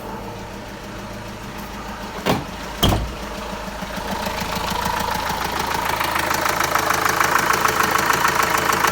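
Renault Master 2.2 dCi G9T722 four-cylinder diesel engine running with a steady diesel clatter that grows gradually louder through the second half. Two short thumps come a little over two seconds in.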